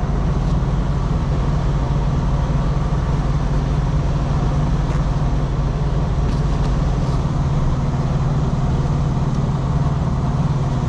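A vehicle engine idling with a steady, even low hum.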